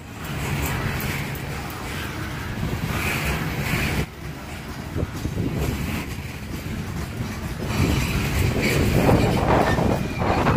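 Freight train of coal cars rolling past at close range, a steady rumble with the wheels clattering over the rails. It grows louder near the end, where a thin, high wheel squeal comes in.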